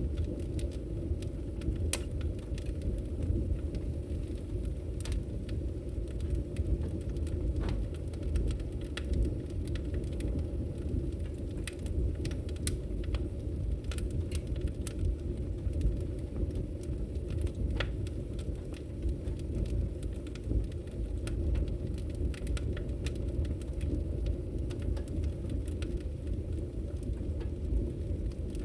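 Wood fire crackling: a steady low rumble with irregular sharp pops and snaps scattered throughout, a few standing out louder.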